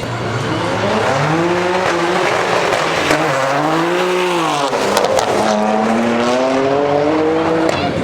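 Car engine at full throttle, its pitch climbing, dipping about halfway through, then climbing again, over tyre noise.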